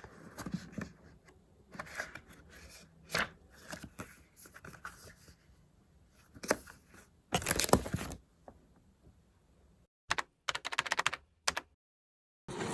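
Paper and sticker handling at a desk: soft taps, clicks and rustles, with a longer peeling or rustling stretch about seven seconds in. Near the end the sound cuts in and out in short bursts.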